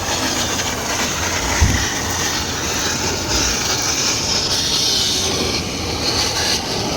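Steady mechanical rumble with a hiss, running evenly throughout.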